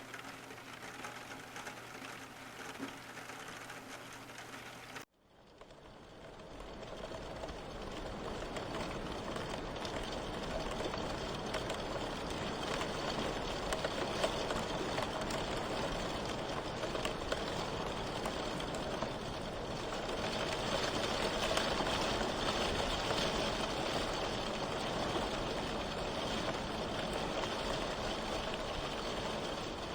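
A steady mechanical hum that cuts off abruptly about five seconds in. An even hiss of rain heard from inside a car then fades in and holds steady.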